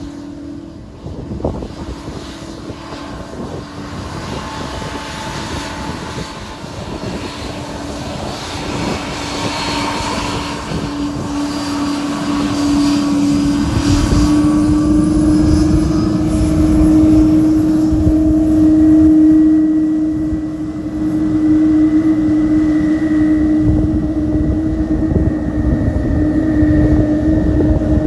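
Boeing 777-200 twin-engine jet taxiing, its turbofans at taxi power: a steady drone with a held tone and a high whine, growing louder through the first half as the jet comes close, then staying loud.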